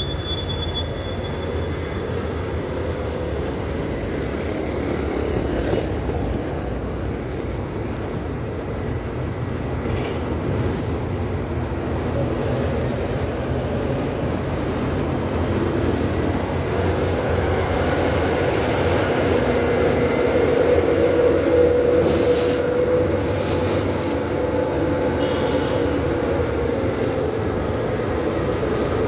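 Steady road and wind noise from riding a bicycle, with a faint humming tone that swells for a few seconds about two-thirds of the way through.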